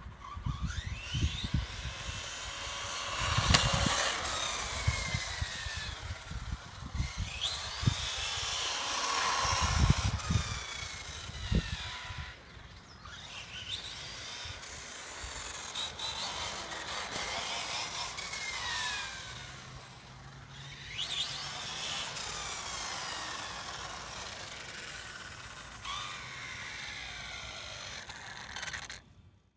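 Electric motor of a 1/10 scale 4WD short course RC truck, from a Castle Creations system on a 3S lipo, whining as it speeds up and slows again and again, its pitch rising and falling. Low thumps come and go, and the sound cuts off suddenly near the end.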